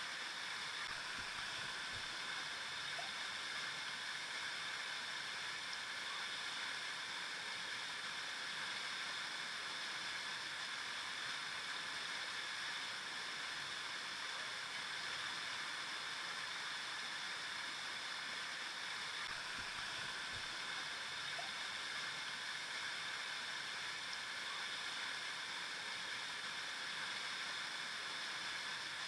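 River water flowing, a steady, even rushing that holds the same level throughout.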